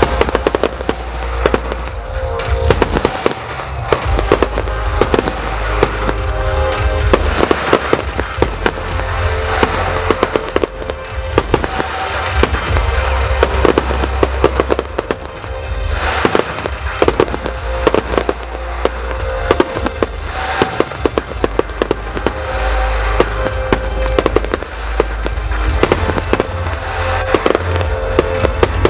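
Fireworks display going off continuously: dense, irregular bangs and crackling from bursting aerial shells and rising comets, over music with held tones, heard on a camera's built-in microphone.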